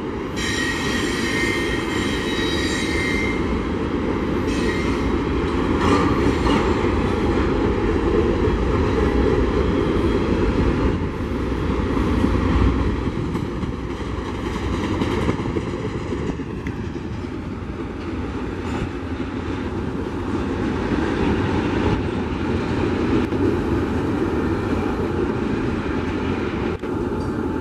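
Norfolk Southern intermodal freight train of mostly empty double-stack well cars rolling past, its wheels on the rail making a steady running noise. A high wheel squeal sounds over it for the first few seconds.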